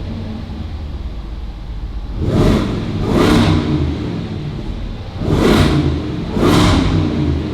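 The Land Rover Defender 110's 5.0-litre supercharged V8 idling warm, then blipped four times, in two pairs of quick revs about three seconds apart, each rising and falling back to idle within about half a second.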